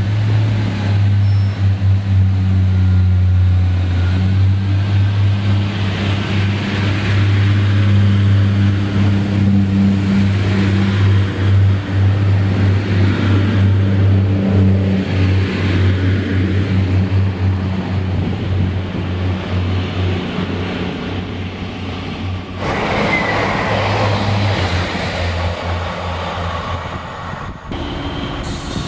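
Diesel multiple unit train's underfloor engine running with a steady low hum. About three quarters of the way in, a few seconds of hissing rushing noise take over.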